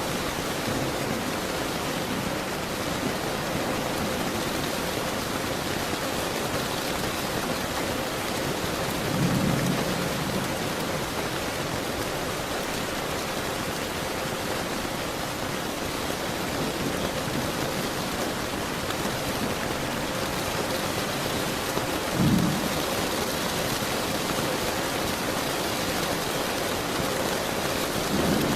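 Steady heavy rain, with low thunder rumbling about nine seconds in and a shorter, sharper thunderclap a little past the twenty-second mark.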